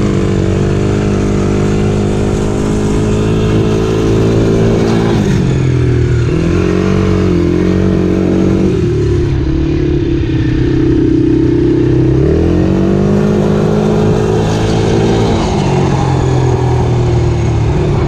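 Dirt bike engine running hard. It revs up and holds, then backs off, three times: at the start, about six seconds in and about twelve seconds in.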